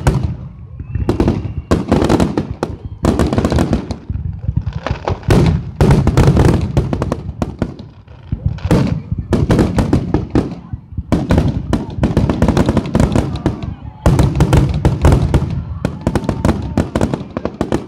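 Aerial firework shells bursting in a dense finale barrage: booms and sharp bangs follow one another several times a second, with hardly a break.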